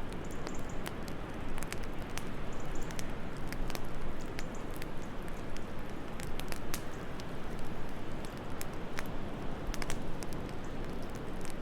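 Wood fire crackling, with irregular sharp pops and snaps, over a steady low rush of wind.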